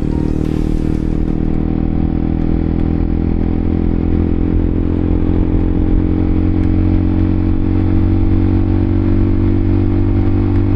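Honda CBR K45R's single-cylinder engine running at a steady speed on the move, its note holding an even pitch and getting slightly louder a few seconds in.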